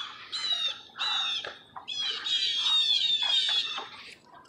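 A bird giving a run of repeated high-pitched calls, each falling slightly in pitch, which stop about four seconds in.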